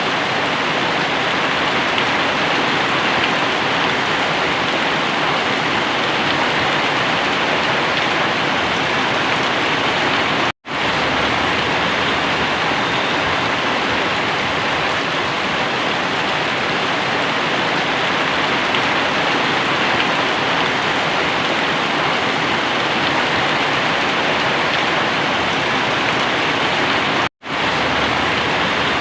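Very heavy rain pouring down as a loud, steady, even hiss, broken twice by split-second drop-outs to silence: about ten seconds in and near the end.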